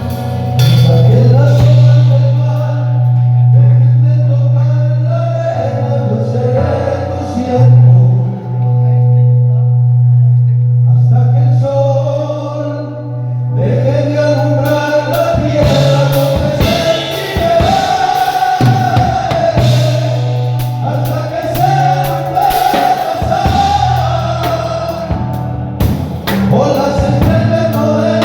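Christian worship music: voices singing a melody over a band with long held bass notes and drums, the drums and singing growing busier about halfway through.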